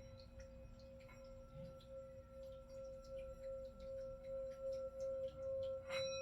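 Singing bowl ringing with one steady low tone and fainter higher overtones, wavering and slowly swelling in loudness; it is struck again near the end.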